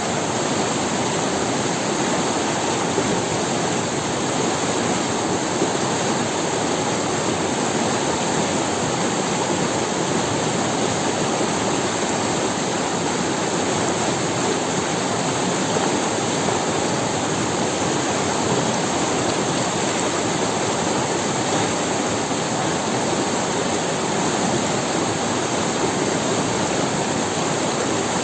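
A river rushing and splashing over stones, a steady full rush of running water with no change in level.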